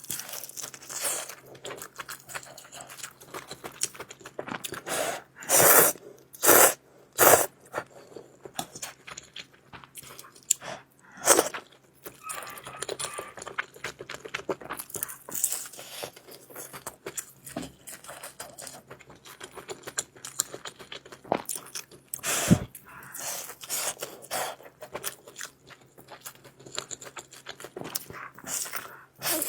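Close-up eating sounds of a person chewing noodles: wet chewing and crunching with scraping, broken by a few louder bursts, three of them close together a few seconds in.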